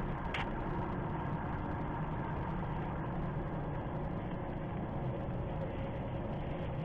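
Steady car engine and road noise from inside a moving car, with a single short click about half a second in.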